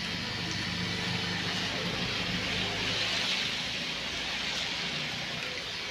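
Electric hair clipper humming steadily, under a broad rush of noise that swells to its loudest about halfway through and then fades.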